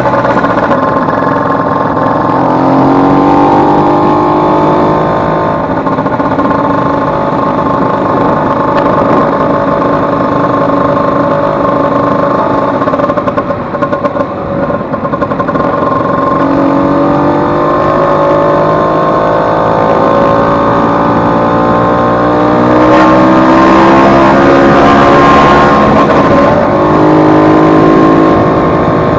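Vespa 150 two-stroke single-cylinder engine running under throttle, its pitch rising and falling repeatedly as it revs up and eases off, loudest about three quarters of the way through.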